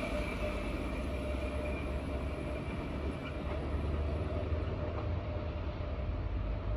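Double-deck electric passenger train pulling away into the distance, its low rumble holding steady while a faint whine fades in the first few seconds.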